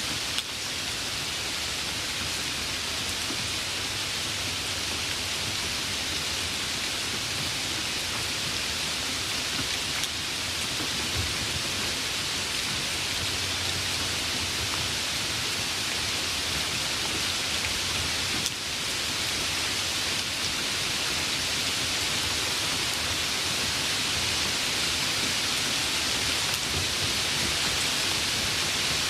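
Steady rain, an even hiss with no pauses. A faint low rumble of distant thunder comes in around the middle.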